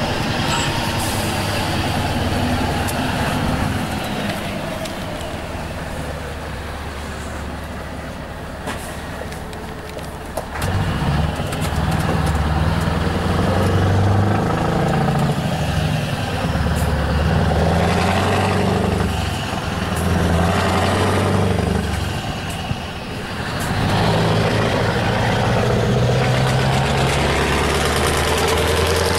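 Scania R truck engine with a straight-through free exhaust under hard acceleration. It runs quieter at first, then turns suddenly loud about a third of the way in. The deep exhaust note then climbs and drops repeatedly as the truck pulls through the gears.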